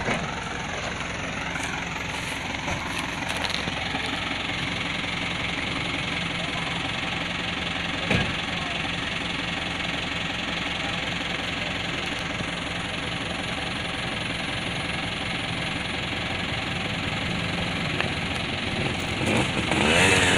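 A truck engine running steadily at low revs, with a single knock about eight seconds in.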